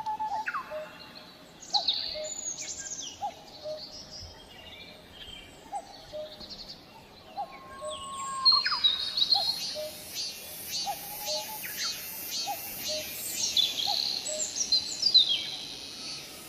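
Birds singing, with a cuckoo repeating its low two-note call over and over and other birds adding quick high sweeping whistles. About halfway through, a cicada starts up with an evenly pulsing high buzz.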